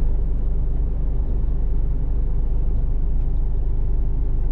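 Mercedes-Benz Actros truck on the move: a steady low rumble of engine and road noise.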